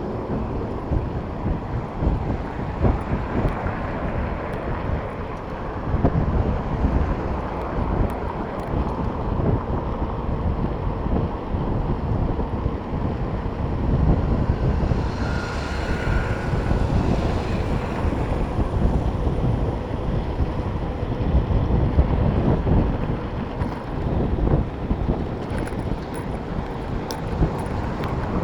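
Wind rumbling on the microphone of a bicycle rider's camera while riding, mixed with city traffic noise, with a short higher-pitched sound about halfway through.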